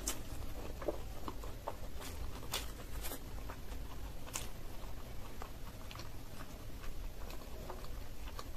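Close-miked chewing of a mouthful of green peas kochuri (koraishutir kochuri) with dum aloo: small wet mouth clicks and smacks scattered irregularly throughout, over a steady low hum.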